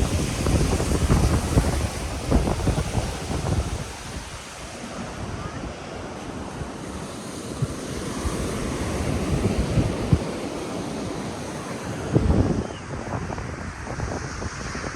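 Ocean surf washing steadily onto the beach, with gusts of wind buffeting the microphone in the first few seconds and again about twelve seconds in.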